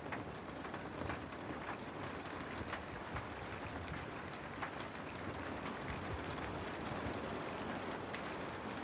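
Steady rain with scattered individual drops ticking against a window.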